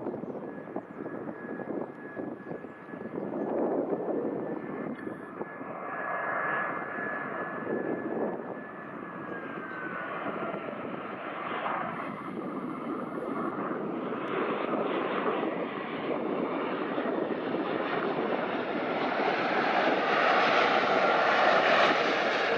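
Airbus A320-214 airliner's CFM56 jet engines on the landing: a steady whine that slides down in pitch about ten seconds in, under a rush of engine noise that grows louder toward the end as the jet passes close.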